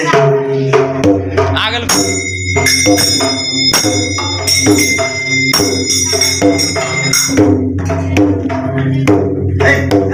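Devotional bhajan accompaniment: a drum keeping a steady beat of about two strokes a second, with jhal hand cymbals clashing and ringing.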